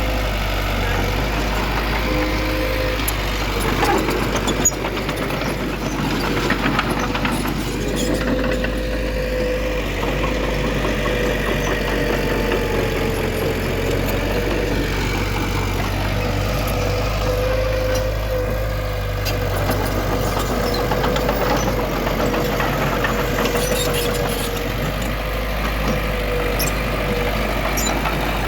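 Diesel engine of heavy earthmoving machinery running steadily, with a steady whine over the low engine hum and a few knocks about four to five seconds in.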